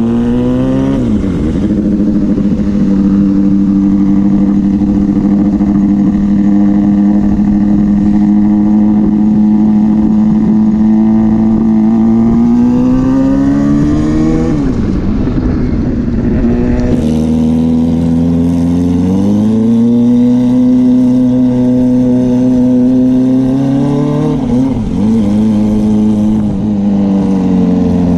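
Motorcycle engine running hard, its pitch climbing and then holding steady for long stretches. The pitch drops sharply about halfway through and again near the end, then climbs again.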